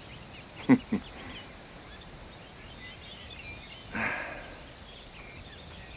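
Quiet outdoor ambience with faint bird and insect calls, broken by two short vocal sounds just under a second in and a breathy sound about four seconds in.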